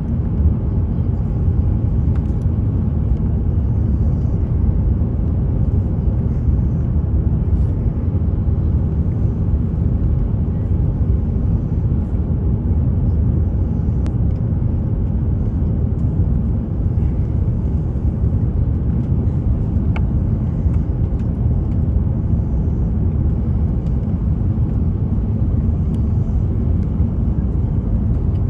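Airbus A350-900 cabin noise: a steady, even rumble of engine and airflow noise heard inside the cabin.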